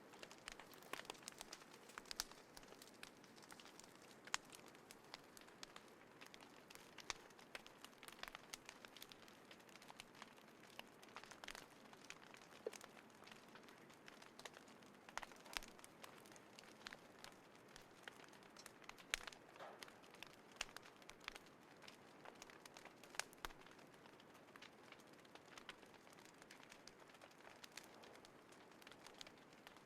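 Small wood fire in a compact folding fire stand, crackling quietly, with frequent irregular sharp pops over a faint steady hiss.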